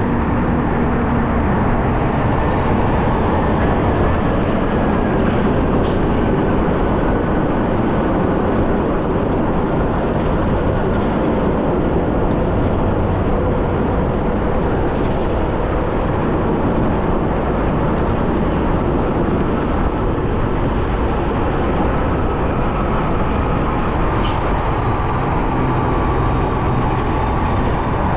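Steady rush of wind and road noise while riding a hub-motor electric bicycle through traffic, with a faint high whine that drifts slowly in pitch.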